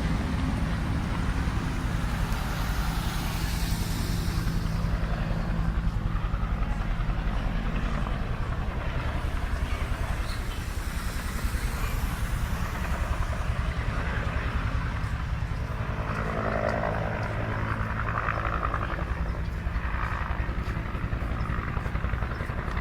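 Helicopter rotor and engine, a steady fast low beating with a low drone throughout, from an aircraft working a wildfire.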